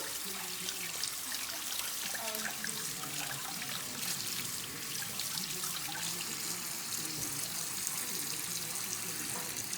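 Kitchen tap running into a sink, the water splashing steadily; it is turned off right at the end.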